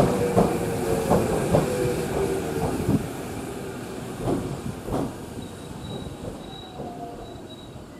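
Electric commuter train rolling slowly past a platform, its wheels squealing and clacking over rail joints. The knocks come further apart and the sound fades as the train slows. A faint high whine is heard near the end.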